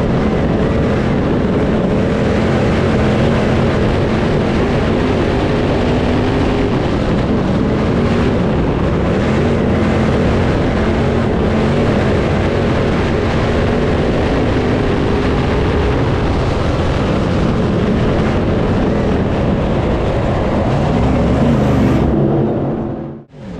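Dirt crate late model race car V8 engine running hard at racing speed, its pitch rising and falling as it goes on and off the throttle. The sound cuts out abruptly for a moment near the end, then comes back.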